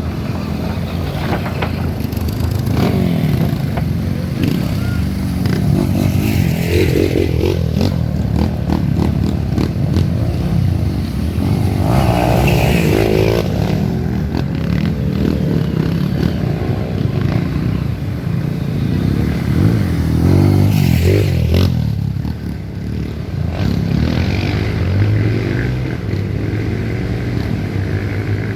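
Off-road trail motorcycle engines running hard, revving up and down several times.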